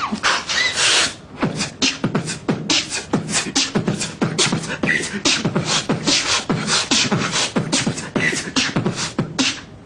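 A man beatboxing: a fast, steady vocal percussion beat of sharp kick, snare and hi-hat-like mouth sounds, several strokes a second, with a few short pitched blips mixed in.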